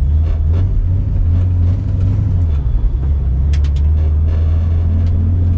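Car engine running at low speed, a steady low rumble that dips briefly in pitch about two and a half seconds in.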